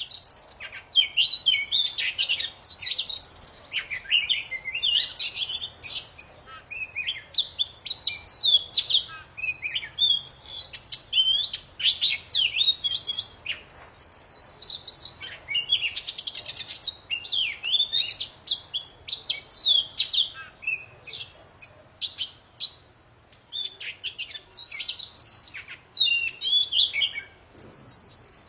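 Oriental magpie-robin of the kacer poci variety singing vigorously: a long, varied song of loud whistles, rapid chirps and trills, with a brief pause about 23 seconds in.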